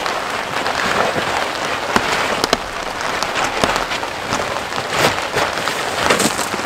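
Steady rain falling, with close drops tapping irregularly on nearby surfaces.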